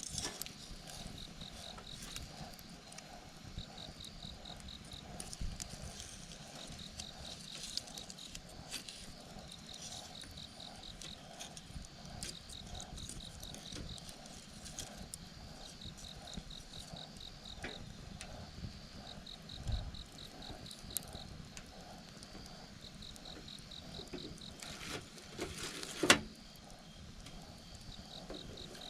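Insects chirping outdoors in short pulsed trills that repeat every second or so, over the scattered crackle of a wood campfire; one sharp pop from the fire near the end.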